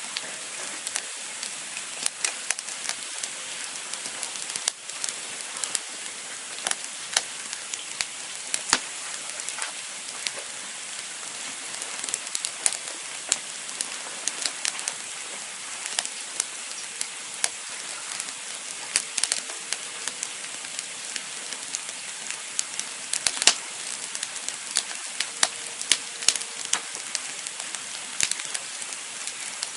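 Wood campfire burning: steady hissing with frequent sharp, irregular crackles and pops.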